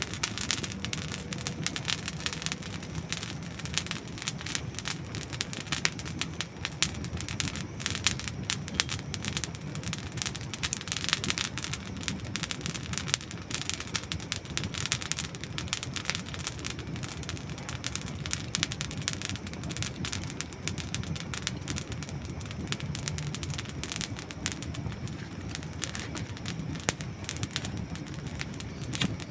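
Dry wood burning in a campfire, crackling and popping continuously with many small sharp snaps.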